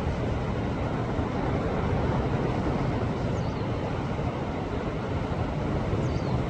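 Sea waves washing against a rocky shore: a steady rush of surf and churning water, swelling slightly about two seconds in.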